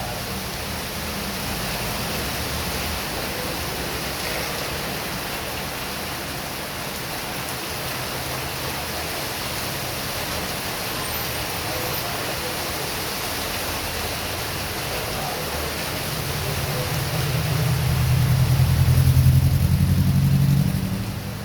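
Heavy rain falling in a steady hiss. Over it a vehicle passes on the wet road: a low rumble swells about three quarters of the way through, is loudest near the end and fades away just before it finishes.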